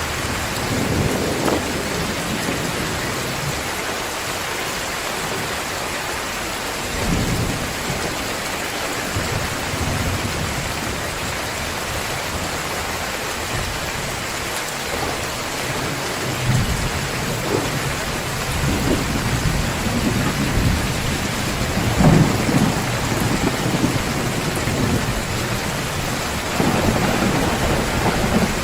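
Heavy rain pouring steadily, with rolls of thunder rumbling again and again under it, heavier from about halfway on.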